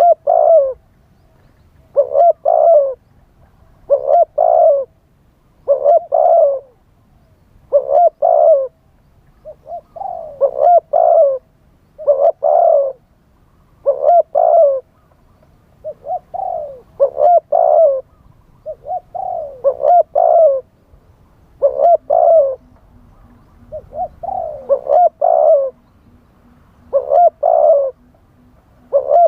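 Spotted dove cooing over and over, a short phrase of several coos about every two seconds.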